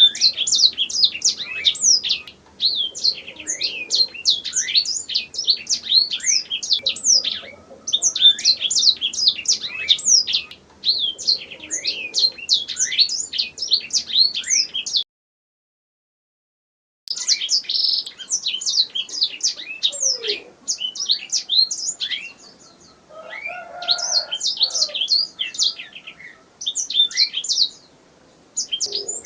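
Domestic canary singing: long, fast phrases of rapid falling high notes strung into rolling trills, with short pauses between phrases. The song cuts out completely for about two seconds around the middle, then resumes.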